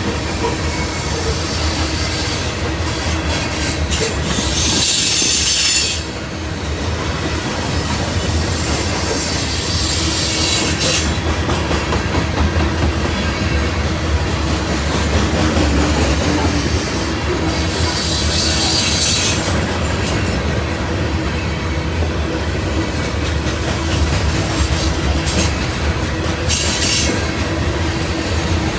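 A train rolling past on the rails, a continuous rumble broken by several brief bursts of high-pitched wheel squeal.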